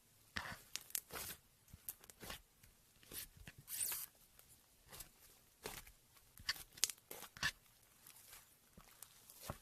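Slime being squeezed and worked by hand, giving irregular sticky crackles and pops.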